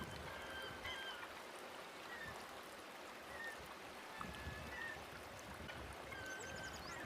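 Faint birds calling over a steady rushing hiss like running water: short whistled calls and high twittering that repeat as the same pattern about seven seconds apart.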